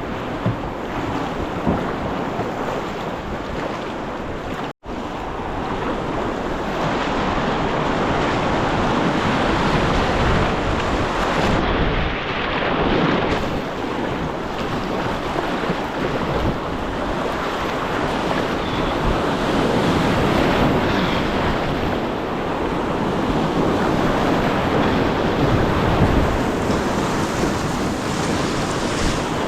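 River water rushing, a steady loud noise, with wind buffeting the microphone. The sound drops out for an instant about five seconds in.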